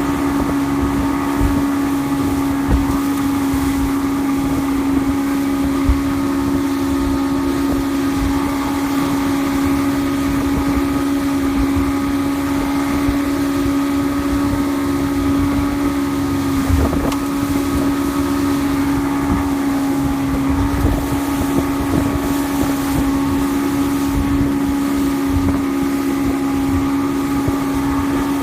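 Evinrude E-TEC 115 hp two-stroke outboard running at a steady speed on a small fishing boat, with wind buffeting the microphone.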